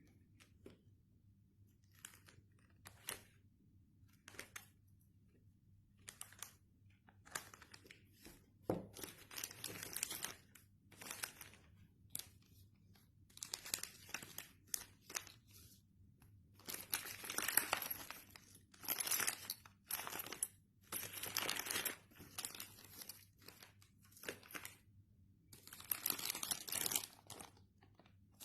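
Packaging being handled, with crinkling and tearing in irregular bursts that become busier and louder from about eight seconds in.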